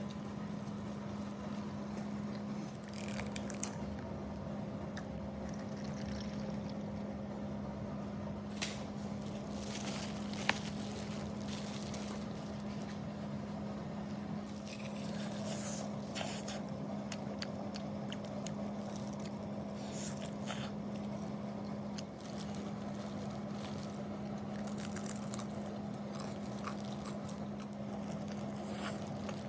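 Fried chicken being bitten into and chewed, with scattered crisp crunches and clicks, over a steady low hum.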